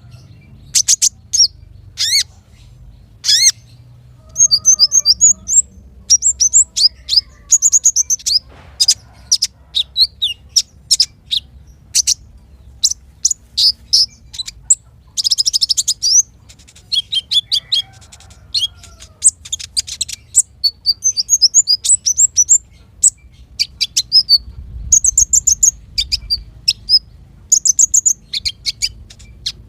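Small songbirds singing in quick succession: sharp high chirps, short whistled notes and fast rattling trills, with brief pauses between phrases.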